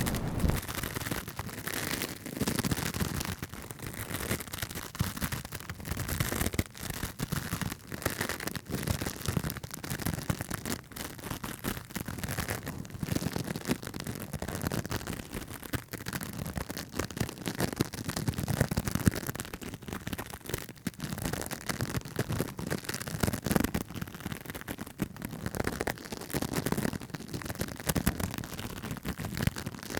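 Close-miked ASMR trigger sounds: fast, irregular tapping and scratching, many small clicks a second.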